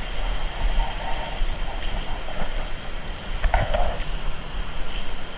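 Heavy typhoon rain with gusting wind buffeting the microphone, a steady rushing noise over an uneven low rumble. A brief higher-pitched sound cuts through about three and a half seconds in.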